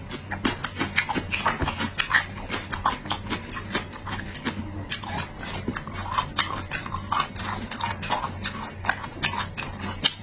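A person chewing and smacking food close to the microphone: a run of quick, irregular wet clicks and smacks.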